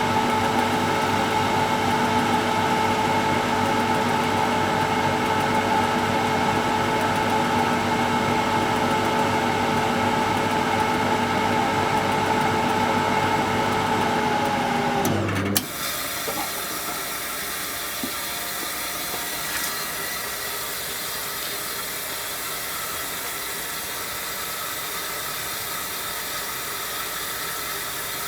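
Zoppas Superautomatic 242 washing machine's motor running at a steady pitch, then switched off about fifteen seconds in: the pitch sags and it cuts out with a click, leaving a quieter steady hiss.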